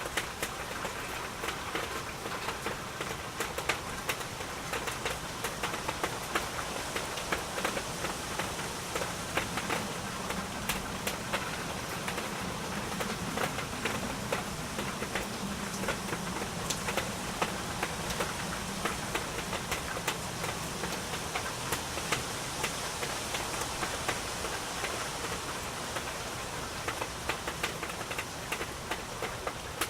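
Steady rain falling, many separate drops ticking and pattering on a surface, with a faint low hum for several seconds midway.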